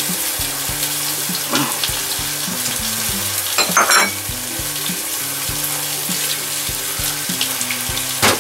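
Steady frying sizzle while a spatula stirs broccoli and shirasu in a stainless saucepan, with a few louder scrapes of the spatula against the pan, the strongest about four seconds in. Quiet background music plays underneath.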